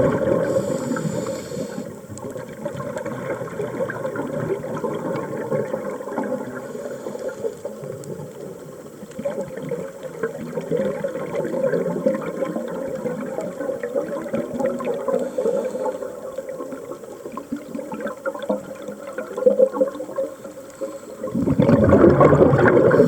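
Underwater bubbling and gurgling of scuba divers' exhaled air, rising into louder surges at the start and again near the end.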